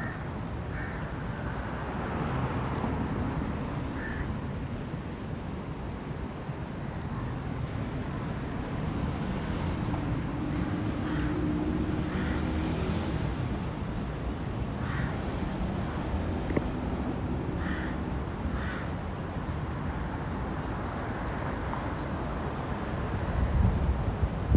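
Street ambience in the rain: a steady wash of rain and traffic noise, with short sharp calls now and then and a loud low bump near the end.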